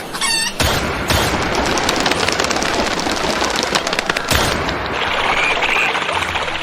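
Audience clapping: a dense patter of hand claps for about three and a half seconds, then dying down, with short high bird chirps near the end and a brief whistled call at the very start.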